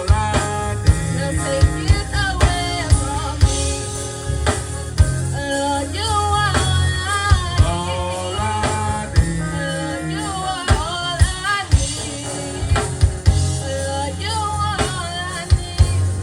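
Live gospel band playing, with drum kit hits, bass and a sliding, bending melodic line that sounds like singing.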